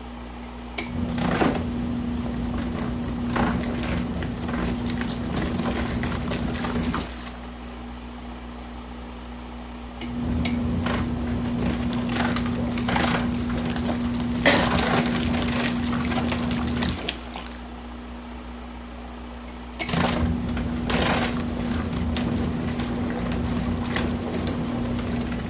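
Compact RV washing machine agitating a load of jackets in hot water, at a high water level. The motor hums and the water sloshes in three runs of about six or seven seconds, each stopping for about three seconds as the wash action reverses.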